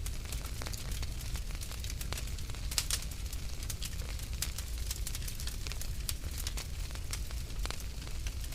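Wood fire burning in a fireplace: a steady low rumble of flames with irregular sharp crackles and pops, a few louder snaps about three seconds in.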